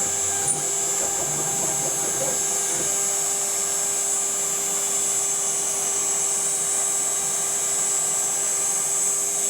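CNC router cutting a relief in a finish pass with no roughing pass before it. The spindle gives a steady high whine, and the stepper motors drive the axes with a steady tone underneath.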